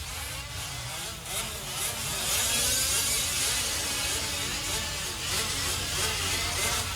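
Several 5th-scale RC off-road trucks' small two-stroke petrol engines buzzing on the track at the same time, their pitches overlapping and rising and falling as they accelerate and back off. The sound grows a little louder about two seconds in.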